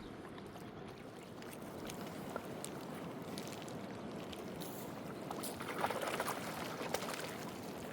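River water lapping and splashing, with small clicks and a louder stretch of splashing near the end.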